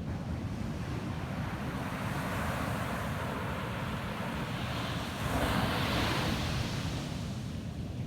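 Ocean surf on a beach: a wave's wash hisses louder from about two seconds in, peaks a little after the middle, then fades. Beneath it runs a steady low rumble of wind on the microphone.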